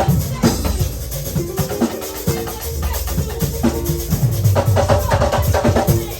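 Instrumental church band music: a drum kit beating steadily under held chords and a bass line.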